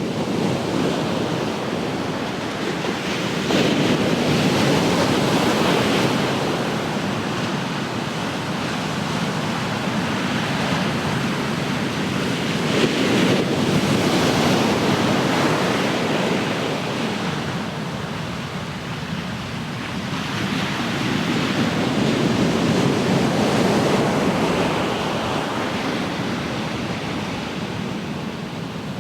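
Ocean waves breaking and washing onto the shore as a continuous rushing hiss. It swells three times, about every nine seconds, as each wave comes in.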